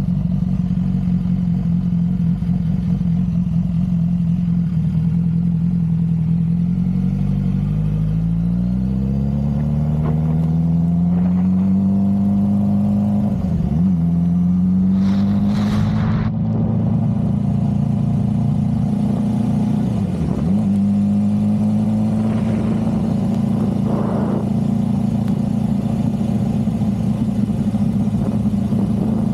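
Motorcycle engine running as the bike rides along. The revs climb about a third of the way in, with two quick drops in pitch as it changes gear, then it settles to a steady cruise. A short hiss comes about halfway through.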